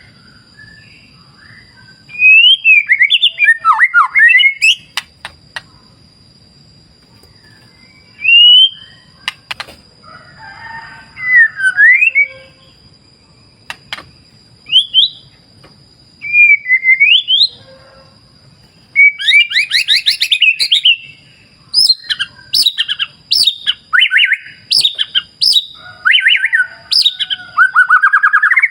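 A songbird singing loud whistled phrases of rising and falling notes, in separate bursts at first and then almost without pause, with fast trills, from about two-thirds of the way in. Beneath it, a faint low rush of flowing river water.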